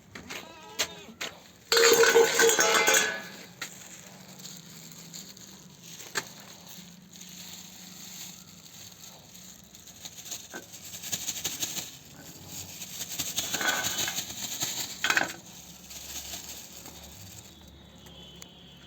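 A cat meowing a few times in the first three seconds, one call much louder than the rest, followed by light clinking and rattling.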